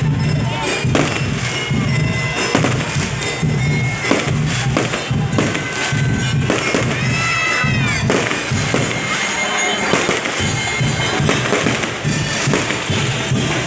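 Aerial fireworks bursting and crackling, with music and its steady beat playing throughout.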